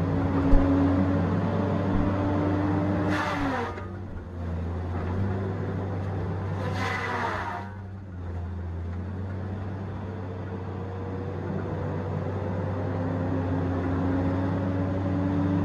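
Tigercat 870C feller buncher's diesel engine and hydraulics running under work, with two short, louder noisy bursts about three and seven seconds in. The engine pitch drops after the first burst and slowly climbs back toward the end, as the machine is loaded and then recovers.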